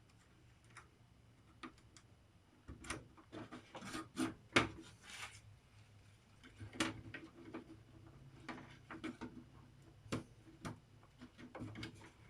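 Irregular small clicks, taps and rubbing from handling the LCD TV's circuit boards and ribbon cable, busiest about three to five seconds in.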